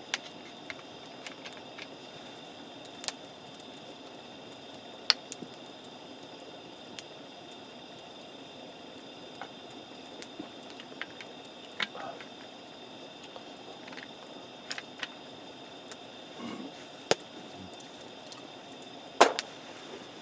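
Wood campfire crackling, with a dozen or so sharp, irregular pops and snaps over a steady low hiss; the loudest pop comes about a second before the end.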